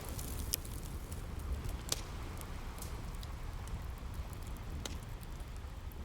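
Wood fire crackling, with scattered sharp pops, over a steady low rumble of sea waves.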